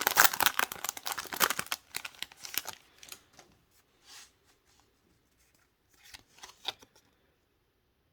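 Foil booster-pack wrapper crinkling and tearing as a pack of trading cards is opened, for about three seconds, then a few faint rustles and clicks of the cards being handled.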